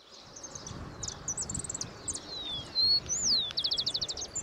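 Several songbirds calling in open countryside: scattered high chirps and short whistles, a downward-slurred whistle about three seconds in, then a fast run of about eight notes near the end.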